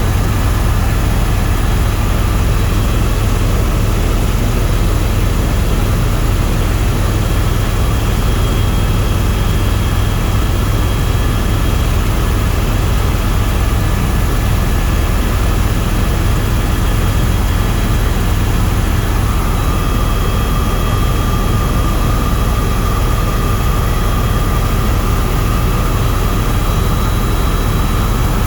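Tour helicopter in flight: a steady, loud drone of rotor and turbine with a strong low thrum. A faint steady whine joins about two-thirds of the way through.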